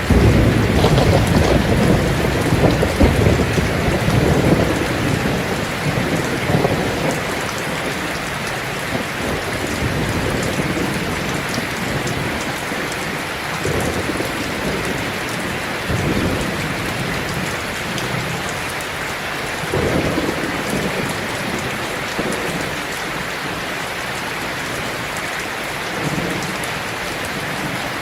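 Heavy rain drumming steadily on a tin roof, with rolls of thunder: a long rumble at the start, then shorter ones about halfway through and near the end.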